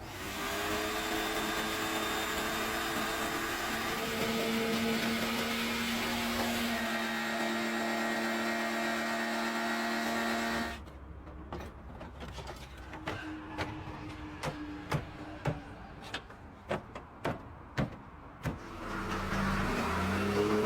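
A power tool's motor runs steadily for about ten seconds, whining at several pitches over a noisy rush, then cuts off suddenly. This is followed by a string of sharp, irregular clicks and knocks.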